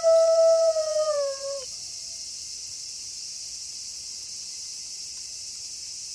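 A wolf's long, steady howl that drops in pitch and ends about a second and a half in, followed by a steady high chorus of night insects.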